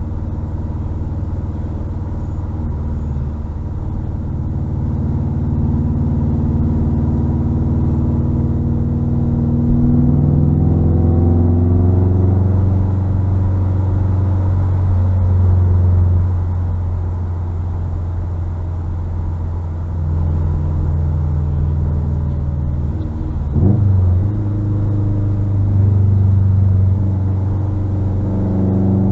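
2021 Subaru WRX STI's turbocharged 2.5-litre flat-four running through a muffler-delete exhaust while driving, revs climbing and easing, with a quick blip of revs about three-quarters of the way through.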